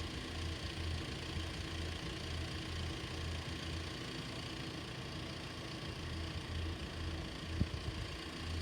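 An engine idling steadily, a low hum that pulses unevenly, with one short knock near the end.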